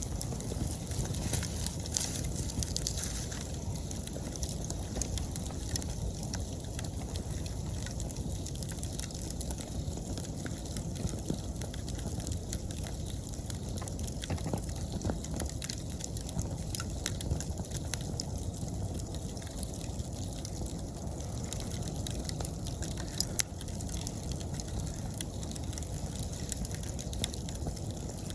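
Wood campfire crackling, with frequent small sharp pops over a low steady rumble, and autumn insects chirping steadily in the background.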